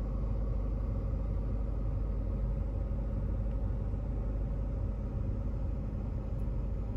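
Steady low rumble of a 2016 BMW X5 idling in park, heard from inside the cabin, with a faint steady hum.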